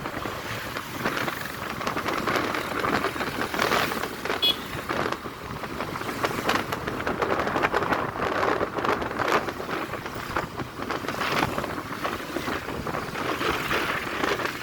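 Noise of riding a motorbike: wind rushing over the microphone, mixed with engine and road noise, swelling and easing in gusts.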